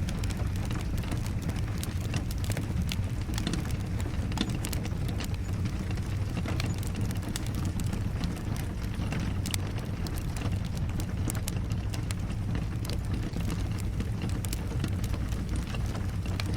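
Wood fire crackling, with many irregular sharp pops and snaps over a steady low rumble. Rain falls steadily underneath.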